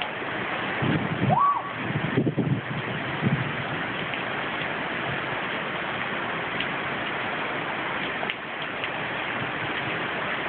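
Steady hiss of heavy hurricane rain and wind. In the first few seconds there are a few brief low sounds and one short rising tone.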